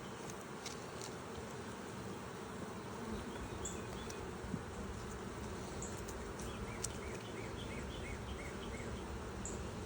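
Honeybees buzzing in a steady hum around an open hive during a frame inspection. A few faint, short high chirps come in quick runs in the second half.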